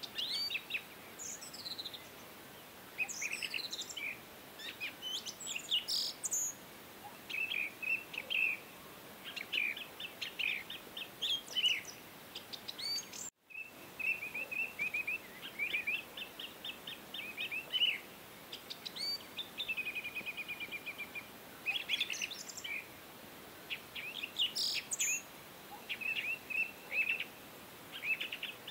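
Small birds chirping and twittering in quick repeated trills and short calls, several overlapping. The sound drops out very briefly about 13 seconds in.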